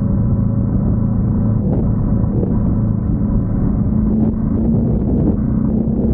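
Motorcycle engine running steadily at cruising speed, a constant drone with road and wind noise.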